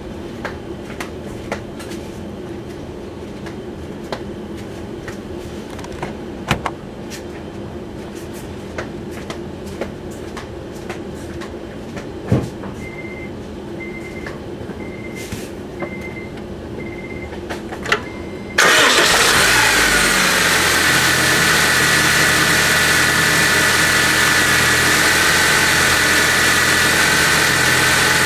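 Five short electronic beeps at one pitch, then a 2008 Honda Civic engine starts with a sudden loud catch. Its speed falls back to a steady idle, carrying a steady high-pitched whine that appeared after new pulleys were installed on the engine.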